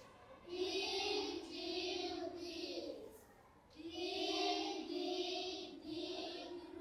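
A group of young children reading aloud together in unison, in a sing-song chant: two runs of words with a short pause about three seconds in.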